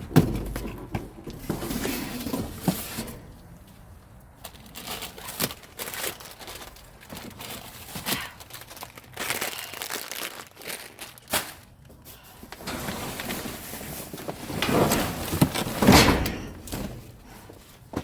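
Rummaging through trash in a metal dumpster: plastic bags and packaging crinkling, with scattered knocks and thunks of items being moved. The loudest run of rustling and knocks comes about 15 to 16 seconds in.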